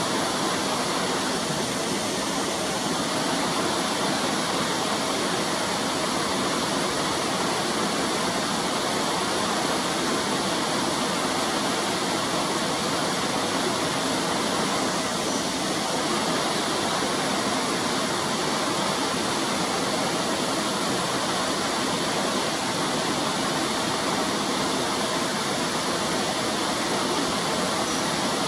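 Fast-flowing stream rushing steadily, an even, unbroken sound of running water.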